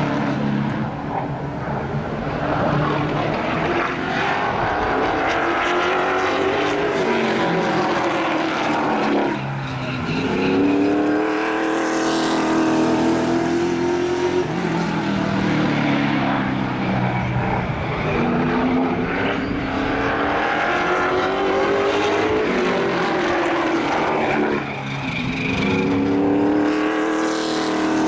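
Race car engines running hard around a track, their pitch climbing and falling over and over as the cars accelerate and lift, with a brief drop in level about ten seconds in and again near the end.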